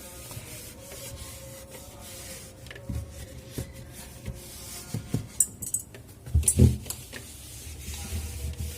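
A fridge part being wiped down with a wet cloth and handled, with scattered knocks and clicks, rubbing, and a louder clatter of thumps about six and a half seconds in. A faint steady hum runs underneath.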